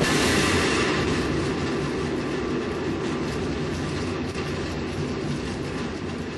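Rocket engine roar during a launch: a steady, loud rumble that swells sharply at the start and slowly fades.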